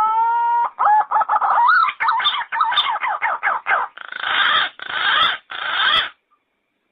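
Yellow-footed green pigeon singing: a rising whistle, then a run of quick warbling notes, then three rougher notes. The song stops about six seconds in.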